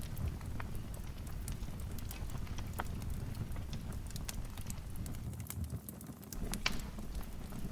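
Wood fire crackling in a fireplace: irregular sharp pops and snaps over a low steady rumble, with one louder snap late on.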